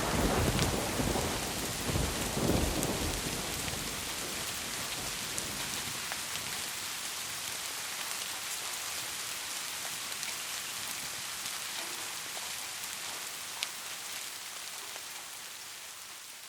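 Steady rain falling, with a rumble of thunder dying away over the first few seconds and swelling once more about two seconds in. After that only the even hiss of the rain with scattered drops, one sharper drop tick near the end.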